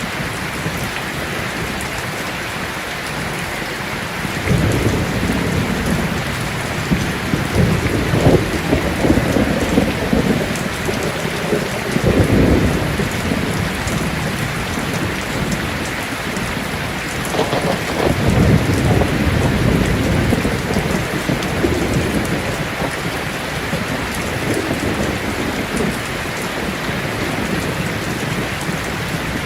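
Heavy rain falling steadily, with rolling thunder rumbling over it: a long rumble from about four seconds in, a shorter one near twelve seconds, and another from about seventeen seconds.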